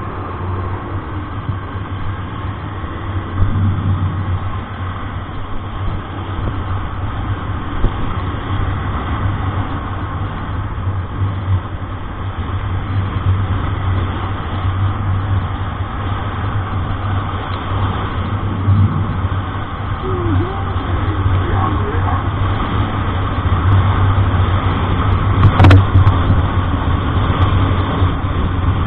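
Motor vehicle on the road: a steady low engine hum with road noise. A single sharp click or knock comes near the end.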